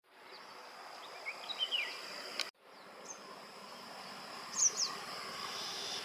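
Open-air ambience: a steady high-pitched insect drone under a few short chirping bird calls, with a click and a brief dropout about two and a half seconds in.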